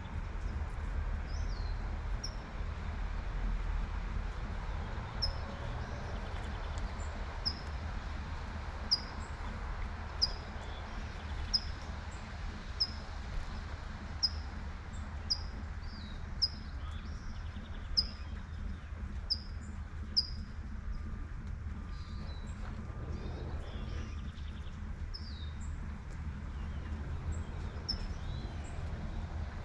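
A songbird repeating a short, high chirp about every second and a half, over the steady hiss of light rain and a low rumble of distant traffic.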